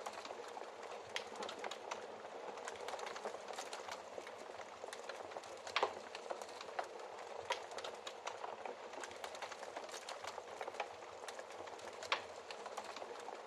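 Wood fire crackling steadily with many small snaps, and two louder pops, about six seconds in and again near the end.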